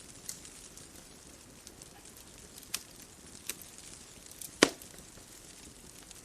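Bonfire crackling: a few scattered sharp pops over a soft steady hiss, with one much louder pop about three-quarters of the way through.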